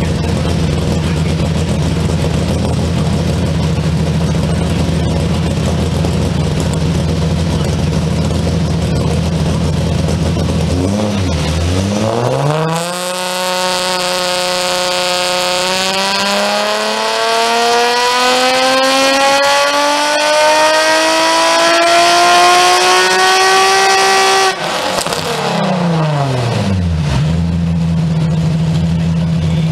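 Nissan 350Z's built, naturally aspirated 3.5-litre V6 with big cams, heard through its exhaust. It idles steadily, then is run up in one long pull on a chassis dyno, its pitch climbing steadily for about twelve seconds. The throttle then shuts suddenly and the revs fall back to idle.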